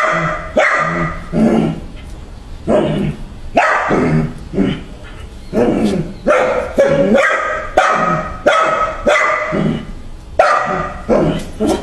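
A dog barking over and over in short, irregular runs, with brief pauses between runs.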